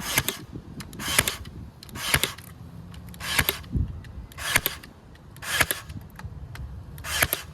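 A staple gun firing seven times, about a second apart, each shot a sharp double click as it drives a staple through aluminium window screen into a wooden log.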